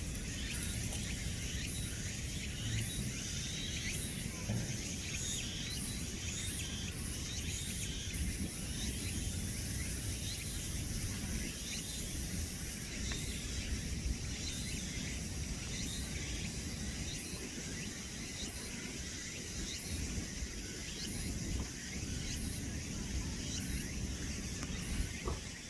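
Outdoor ambience: a steady high insect chirring with a continuous low rumble beneath it.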